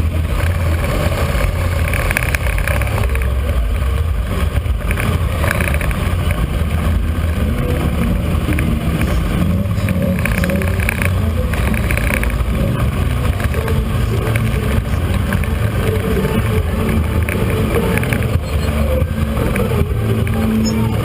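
Motorcycle engine running with a steady low note.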